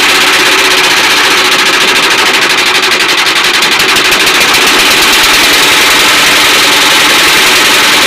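Freshly rebuilt air-cooled diesel engine running steadily with a fast, even beat. A light knock that the mechanic expects to disappear as the new parts run in.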